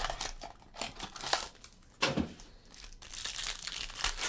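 Plastic packaging around trading cards crinkling and tearing as a pack is opened and the cards are handled, in irregular rustles with a sharper crackle about two seconds in.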